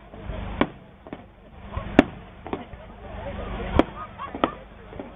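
Aerial firework shells bursting: about half a dozen sharp bangs at irregular intervals, the loudest about two seconds in and another near four seconds in.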